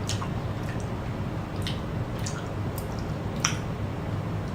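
Someone chewing a piece of boiled deep-sea gooseneck barnacle: short wet mouth clicks and smacks, about six of them, over a steady low hum.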